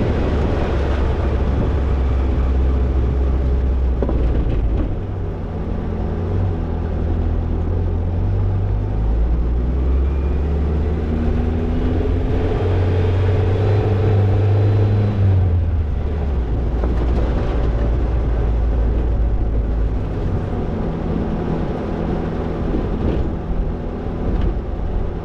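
Toyota Tercel 4WD wagon driving, its engine a steady low drone that rises and falls in pitch several times with the throttle.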